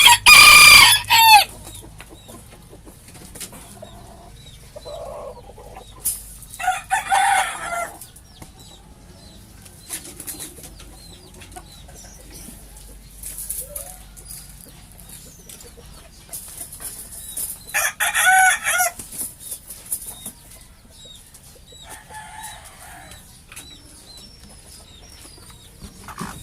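Bantam rooster crowing three times, each crow about a second long, with quieter clucking from the flock between the crows.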